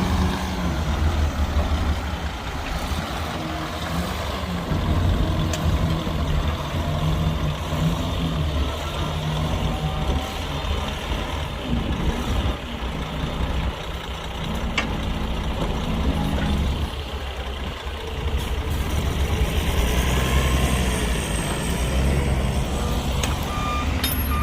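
Heavy diesel engines of dump trucks and a bulldozer working, a steady low drone whose pitch rises and falls as the machines are throttled up and down.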